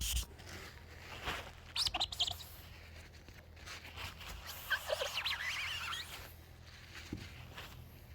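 Small birds chirping faintly in two short bouts, about two seconds in and again around five seconds, with a few light handling clicks; hand wet-sanding on the paint stops just as it begins.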